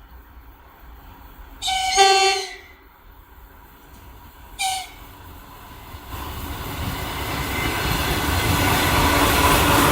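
An ER2K electric multiple unit sounds its horn: one long blast about two seconds in, then a short one near five seconds. Its running noise then grows steadily louder as the train approaches.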